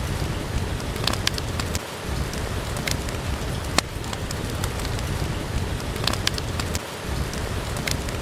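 Steady, even rain, with scattered sharp pops and clicks on top of it, about one every second.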